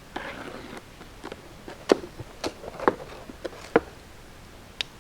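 A cast iron part being taken out of its packaging by hand: a short rustle, then about five separate sharp clicks and knocks.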